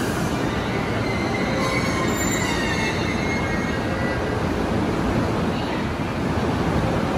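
Electric commuter train of the E233 series moving slowly through an underground station. Its running gear gives a steady rumble, with faint high-pitched wheel squeals about two to three seconds in.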